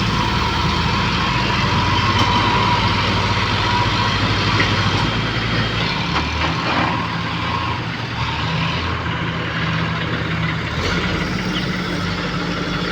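Tractor diesel engine running steadily, its note changing about halfway through and again near the end as the engine speed shifts.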